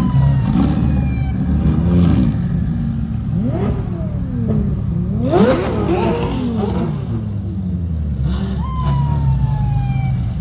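Car engines running with a steady low rumble, and an engine revving up and down in several quick blips about midway through.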